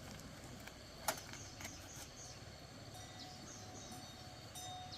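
Faint background ambience with a repeating high chirping, broken by a single sharp click about a second in and a few lighter ticks.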